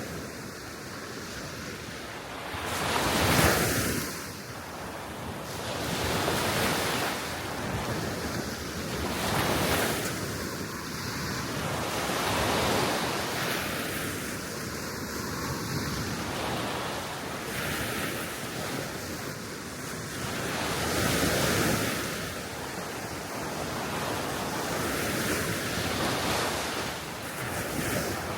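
Small waves breaking and washing onto the shore, one swell after another every few seconds, with steady wind blowing across the microphone. The largest wave breaks about three seconds in.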